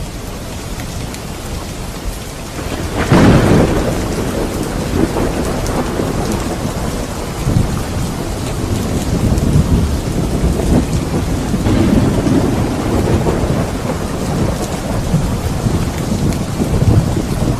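Heavy rain falling, with a sudden thunderclap about three seconds in that gives way to long, rolling thunder rumbling under the rain.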